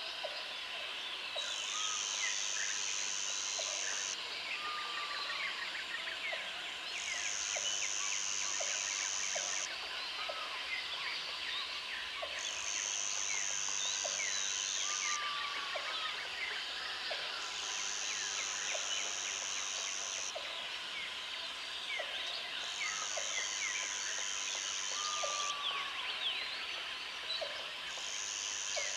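Jungle ambience: a high insect buzz that comes in bursts of about three seconds, roughly every five seconds, over a dense chorus of chirping and whistling birds, a steady insect drone and short low calls about once a second.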